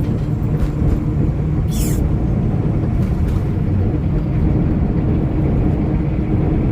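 Steady low road and engine drone inside a moving vehicle, with a faint steady hum over it. A short hiss comes about two seconds in.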